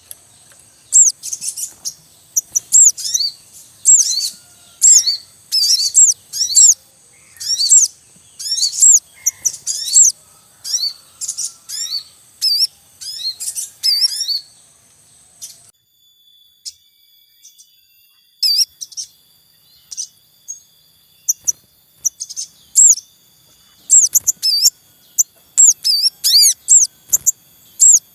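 Sogon birds chirping in quick, high-pitched bursts of several down-slurred notes, about one burst a second. Midway the bursts thin to occasional notes over a faint steady high tone, then pick up again near the end. These are the calls of a breeding pair and its young, used as a lure or tutor recording.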